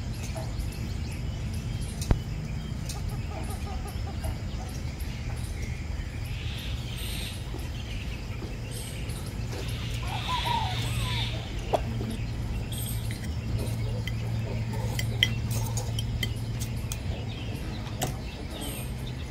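Birds chirping over a steady low hum, with a few isolated sharp clicks scattered through.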